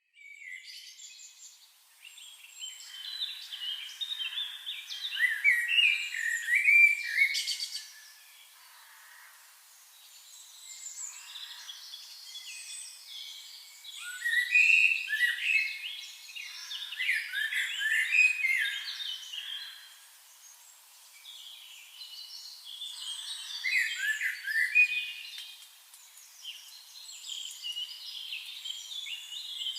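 Small songbirds chirping and twittering, many short quick notes overlapping. It swells into three dense spells and thins to scattered calls between them.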